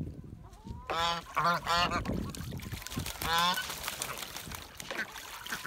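Domestic geese honking: a quick run of three calls about a second in, then another call a little past the middle.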